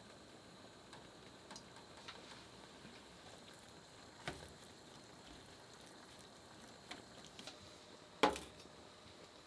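A few light, sharp clicks and taps over a faint steady hiss, the loudest two about four seconds apart.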